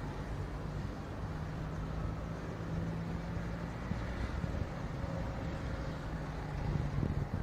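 Steady low rumble of city traffic with engine hum, mixed with storm wind buffeting the microphone.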